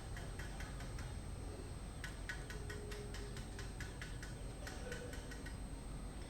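Zebra dove feeding its chicks: three quick runs of soft, rapid clicks, several a second, over a faint steady low hum.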